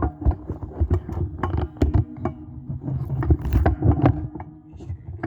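Static from a microwave receiver's audio output played through an amplifier: irregular crackling pops over a steady electrical hum.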